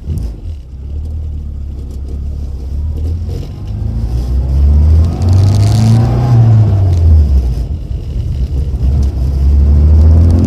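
Rover Mini's A-series four-cylinder engine running through an HKS and Rookie aftermarket exhaust, pulling under acceleration: the note climbs in pitch to a peak about six seconds in, drops back as with a gear change, and climbs again near the end.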